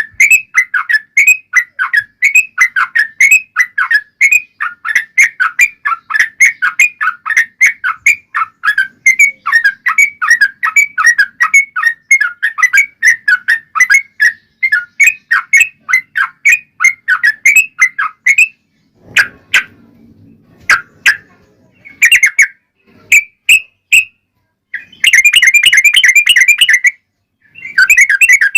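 Yellow-vented bulbul (trucuk) song: a long rapid chattering run of bright notes, several a second, that breaks off after about eighteen seconds into scattered single notes and then comes back in two short dense bursts near the end.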